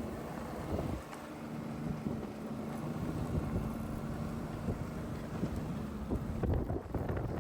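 A vehicle engine running steadily, with wind rushing over the microphone.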